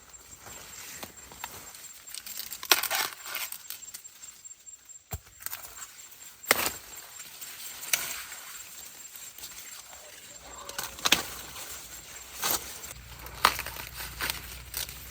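Ears of corn being snapped off their stalks by hand, with dry leaves rustling: a sharp crack every one to three seconds, about six in all.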